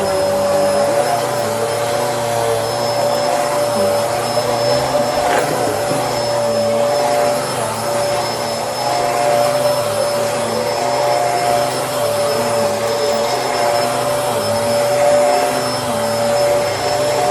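Bissell Helix upright vacuum cleaner running steadily, its motor giving a constant whine over a rushing airflow noise, with small swells in loudness as it works the floor.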